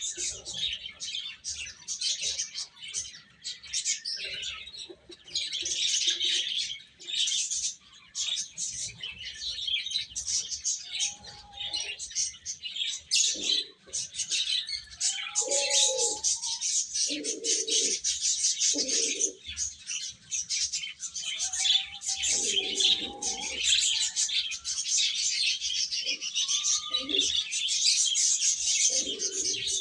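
Baby chicks peeping continuously in a dense, high-pitched chorus, with a few lower, longer calls breaking in every few seconds from about a third of the way in.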